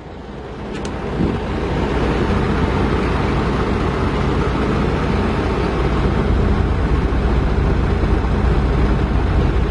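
Heavy diesel engine of a tracked machine building up over the first couple of seconds, then running loud and steady under load as the machine is positioned on the truck deck.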